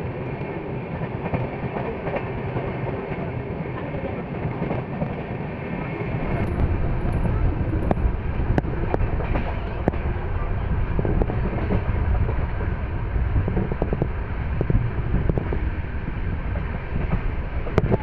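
A moving passenger express train heard from an open coach doorway: the wheels rumble steadily on the rails, with scattered sharp clicks over rail joints. The rumble grows louder about six seconds in.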